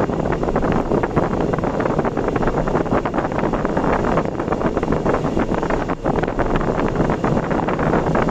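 Car travelling at speed on an expressway: steady tyre and wind noise.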